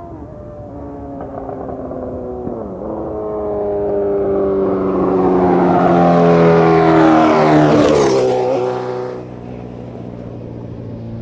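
Suzuki Hayabusa inline-four running through a full 4-into-1 VooDoo exhaust with the baffle in. It comes on under acceleration, with an upshift about two and a half seconds in, and grows louder as it nears. It passes by with its pitch dropping around eight seconds in, then falls away to a low steady hum.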